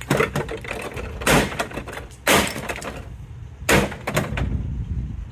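Plastic back cover of a Sony LED TV cracking and snapping as it is wrenched apart: a series of sharp cracks, the loudest about a second apart.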